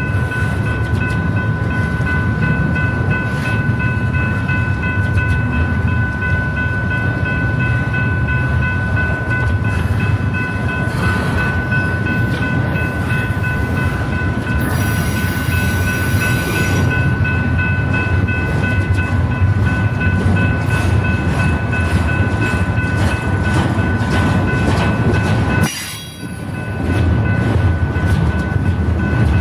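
BNSF freight train rolling past at close range: a steady rumble of the cars on the rails, with steady high ringing tones over it. There is a short hiss about halfway and a brief lull near the end.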